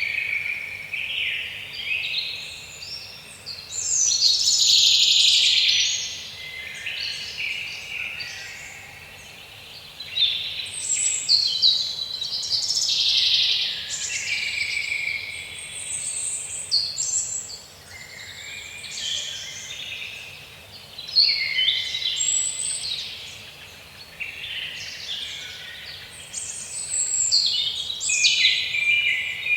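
Songbirds singing: a continuous string of high chirps and trills in overlapping phrases of a second or two.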